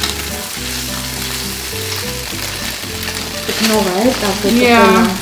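Cubes of tofu sizzling as they fry in an electric skillet, stirred with a silicone spatula: a steady frying hiss.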